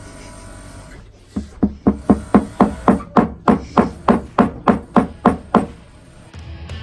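Small hammer tapping in a quick, even run of about sixteen strikes, roughly four a second, with background music.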